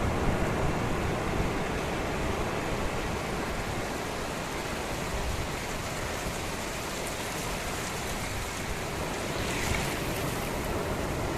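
Sea surf washing onto a beach: a steady, even rushing noise.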